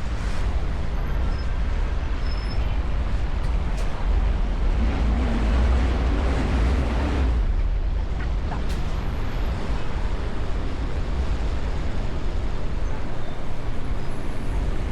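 Steady road traffic noise with a deep low rumble, swelling for a couple of seconds about five seconds in.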